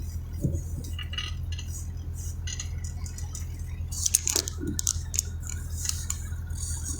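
Steady low hum of a car running, heard inside the cabin, with scattered light clicks and rattles.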